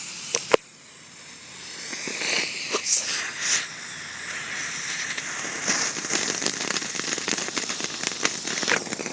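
Novelty tank ground firework going off: a sharp pop, then a hiss of sparks that swells with a few louder spurts, turning into dense rapid crackling for the last few seconds.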